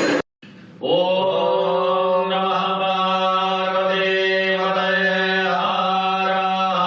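Mantra chanting: a voice holds one long, steady low note whose vowel colour shifts partway through. It starts about a second in, after a brief cut to silence.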